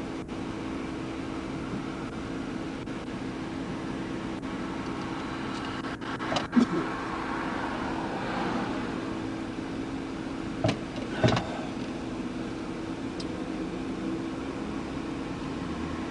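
Steady hum of a vehicle running, with a few short clicks and knocks about six seconds in and again twice around eleven seconds.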